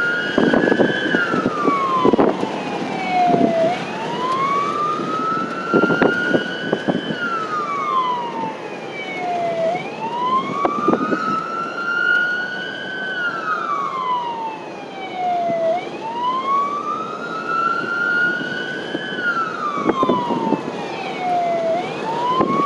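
Emergency vehicle siren on a slow wail, rising and falling about every six seconds, four times over, with vehicle road noise and a few knocks beneath it.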